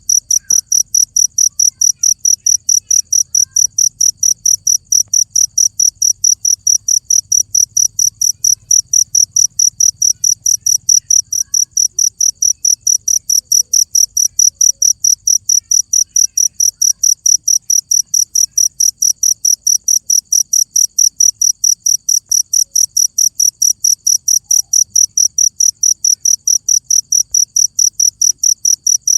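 A cricket chirping in a steady, unbroken rhythm of about three high-pitched chirps a second.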